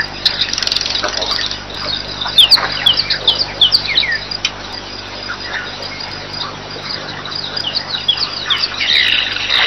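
Birds chirping: many short, quick falling chirps, busy in the first few seconds, thinning out in the middle and picking up again near the end.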